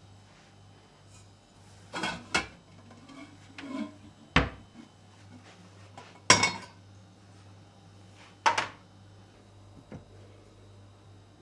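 Dishes and cutlery clinking and clattering as they are handled: about half a dozen separate knocks and clinks, the loudest a little past the middle, over a low steady hum.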